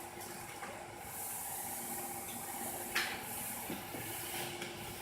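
Quiet background: a steady high hiss with a faint steady hum under it, and a single short click about three seconds in.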